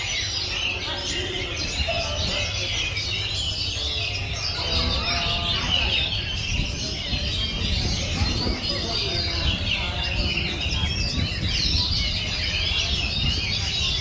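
Caged songbirds singing together in a dense chorus of overlapping chirps and warbles, the oriental magpie-robin (kacer) among them, over a steady low rumble.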